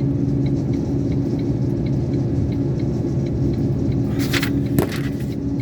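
Iveco concrete mixer lorry discharging its load: the engine and turning drum give a steady rumble with a low hum and faint regular ticking as 3 cubic metres of concrete pours out the back. About four seconds in there is a short hiss, then a sharp knock.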